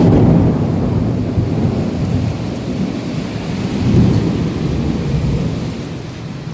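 A thunder clap breaking suddenly into a long, low rumble over rain. The rumble swells again about four seconds in, then fades away.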